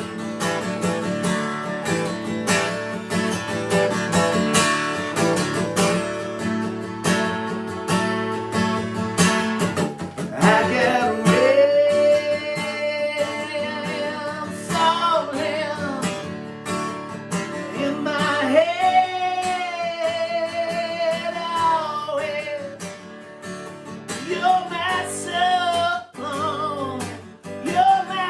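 Guitar strummed with a man singing over it; from about ten seconds in his voice holds long, wavering notes.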